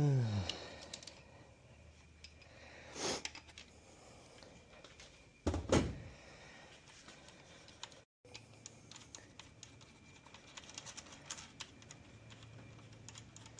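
Hand-tool work on a tractor engine's connecting rod bearing cap as it is loosened and pulled off: a couple of knocks, then a run of light metallic clicks and taps.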